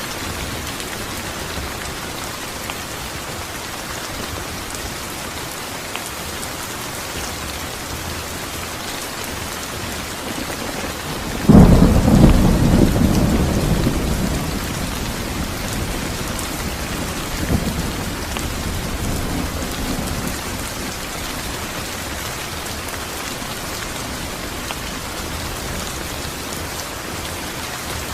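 Steady rain falling. Nearly halfway through, a sudden loud thunderclap breaks in and rumbles away over a few seconds, followed by a fainter rumble a few seconds later.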